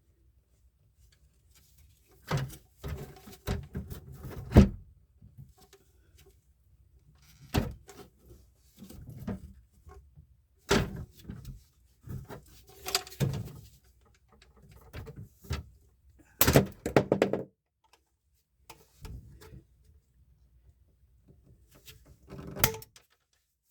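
Pipe cutter cutting a drain pipe, with irregular knocks, clicks and thunks from the cutter and the pipe being handled. Nearly quiet for the first two seconds.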